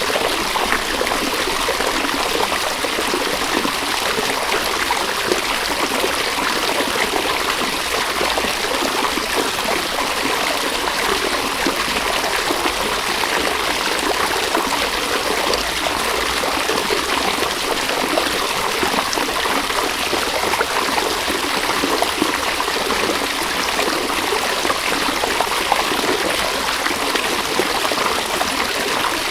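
River water running steadily over stones, a constant rushing and trickling.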